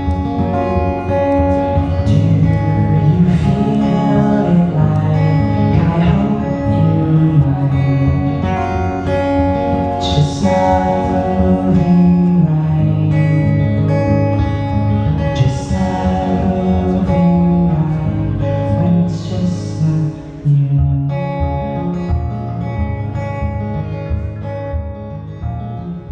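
Acoustic guitar strummed with a singer, a song played at a steady level that dips briefly about twenty seconds in and then grows quieter.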